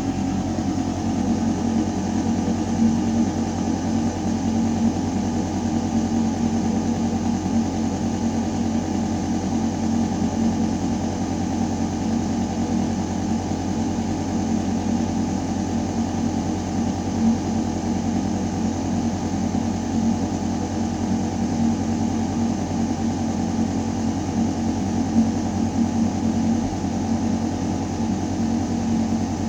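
Ventilation system running with a steady, deep mechanical hum and the rush of air moving through metal ducting, constant throughout.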